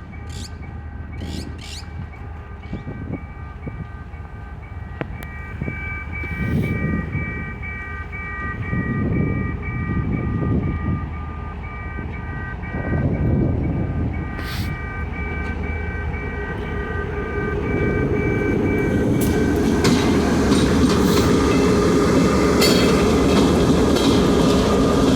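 Level-crossing warning bell ringing in fast, even pulses while a diesel-hauled train, the EMD G22CW A715 with its work train, approaches. The rumble swells in and out, then from about three-quarters of the way in becomes a louder, steady train noise with wheel clatter as the train rolls by.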